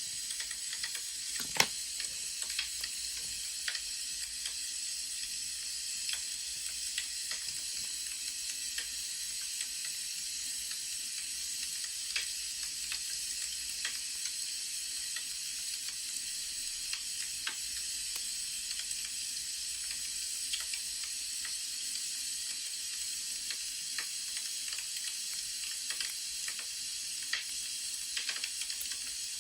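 Burning firewood crackling: a steady hiss with scattered small pops, and one louder pop about a second and a half in.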